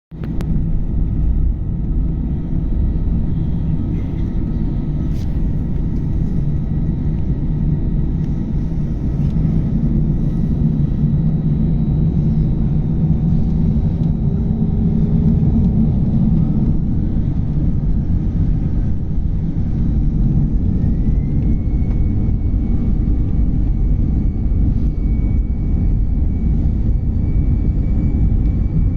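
Airbus A319-111's CFM56 jet engines running during take-off, heard from inside the cabin as a loud, steady low rumble. About two-thirds of the way through, a thin whine rises in pitch and then holds.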